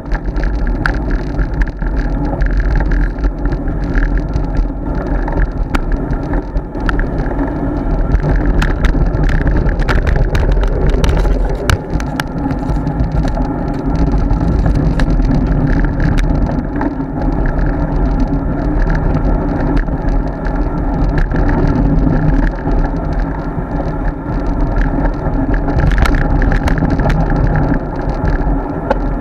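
Road bicycle in motion, heard through an action camera: a steady loud rumble of wind and road noise, broken by many small clicks and rattles.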